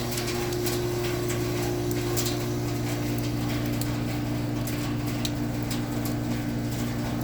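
Carrier Comfort 14 heat pump outdoor unit running with a steady low mechanical hum made of several fixed tones, with a few faint clicks.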